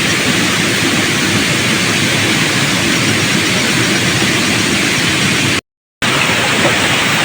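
Steady, loud rush of a waterfall, an even wash of falling water that drops out to silence for a moment about five and a half seconds in.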